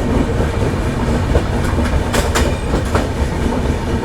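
Passenger express train running, heard from inside the coach: a steady rumble of wheels on the track with several sharp clacks over rail joints past the middle.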